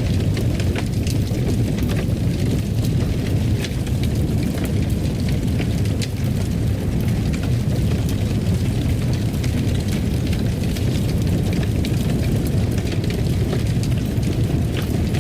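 Wood fire crackling in a fireplace: a steady low rumble of flames with frequent small sharp crackles and pops.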